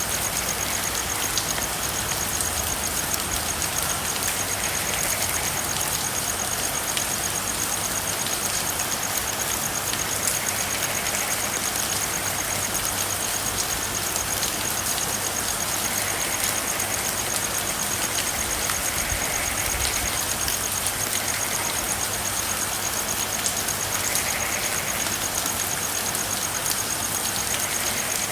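Steady rain falling, an even hiss, with a continuous high, rapidly pulsing trill over it and frogs calling briefly every few seconds.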